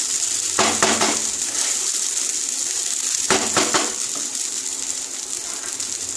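Foxtail millet pulao frying in a non-stick wok over a steady sizzle, with a wooden spatula stirring and scraping through it in two short bursts, about half a second in and again after three seconds.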